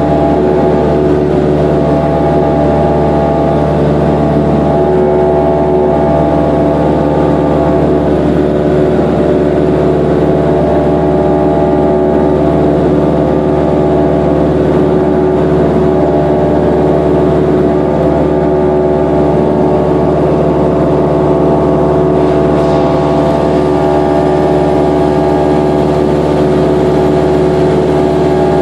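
Cessna 172's piston engine and propeller running steadily at constant power, a loud, even drone whose pitch holds unchanged throughout.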